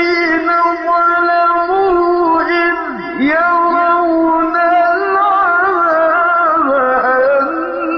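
A solo voice singing long, held melodic lines with ornamented turns and slides between notes, in a chant-like style.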